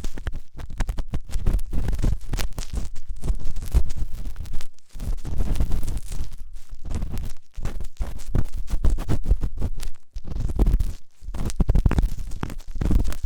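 Intense close-up ear cleaning: an ear-cleaning tool scraping and scratching hard in dense, irregular strokes with a deep rumble, with brief pauses about five and ten seconds in.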